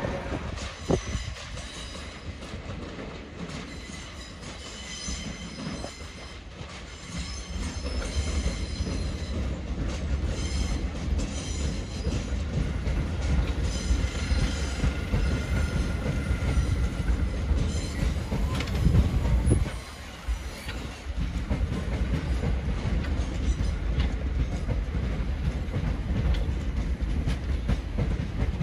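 Gatwick Express Class 387 electric multiple unit running slowly over pointwork on the station approach. Its wheels squeal in high ringing tones and click over the rail joints through the first half, over a steady low rumble of the train.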